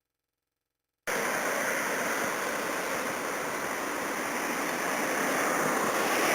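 Steam locomotive's steady hiss of escaping steam, starting suddenly about a second in and growing slowly louder.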